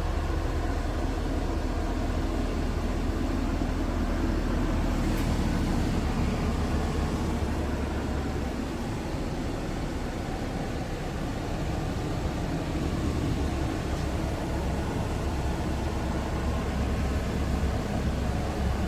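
Scania R580 tractor unit's V8 diesel engine running steadily with a deep low rumble.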